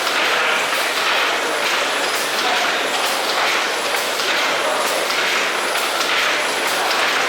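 1919 William Roberts stationary mill steam engine running steadily, with a rhythmic beat about once a second over a constant steam hiss and mechanical clatter.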